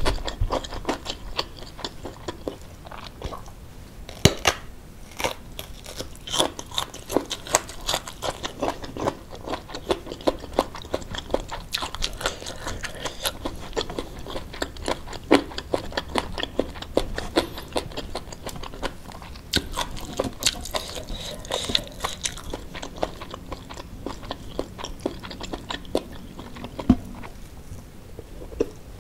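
A person eating close to the microphone: chewing and biting with irregular crunches and wet mouth clicks, the crunch typical of fried anchovies in sambal.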